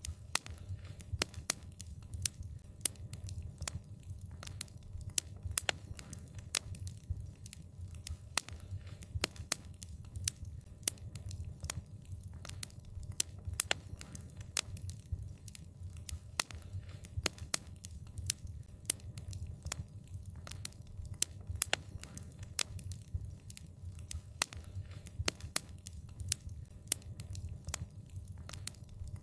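Wood fire burning, with frequent irregular sharp crackles and pops over a steady low rumble of the flames.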